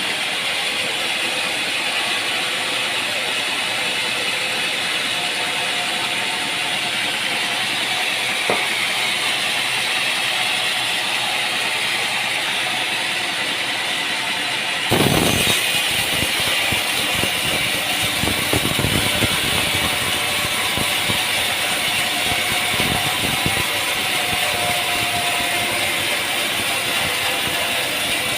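Sawmill machinery running steadily. About halfway through the sound changes suddenly to a heavier running with irregular knocks and rattles.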